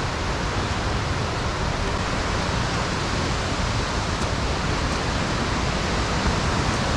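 Steady rushing of falling water from Abe Great Falls, a tall waterfall, growing slightly louder toward the end.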